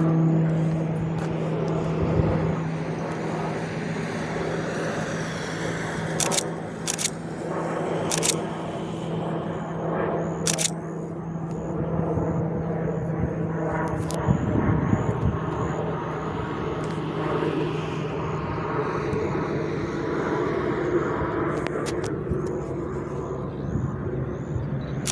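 Pilatus PC-21 turboprop trainer flying a circuit: its propeller makes a steady low drone that cuts off suddenly about 14 seconds in. Underneath runs a continuous engine and road rumble, with a few sharp clicks.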